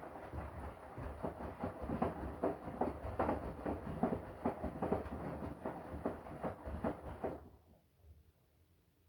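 Washing machine drum turning during the wash, the laundry tumbling with a regular knocking, about two to three thumps a second over a low rumble. Near the end the drum stops and the sound dies away quickly, as it does at the pause between turns in a wash cycle.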